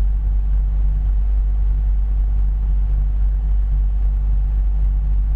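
A vehicle engine running steadily, with a constant deep rumble and an even low hum that does not change.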